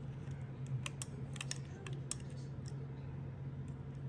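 Light, irregular clicks and taps of small hand tools on a phone during repair, over a steady low hum.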